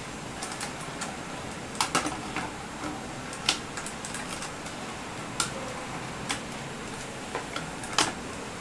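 Irregular light clicks and taps of plastic parts being handled, as a scale action figure is fitted and posed on a model motorcycle, with about a dozen sharp clicks over a faint steady hiss.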